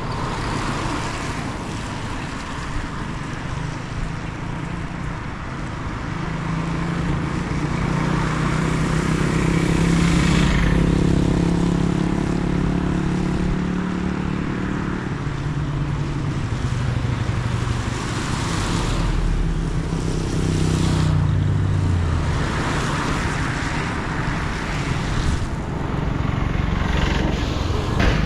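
Road traffic: a motor vehicle's engine runs close by from about six seconds in, loudest around ten seconds and gone by about twenty-one, over a steady hiss of traffic noise.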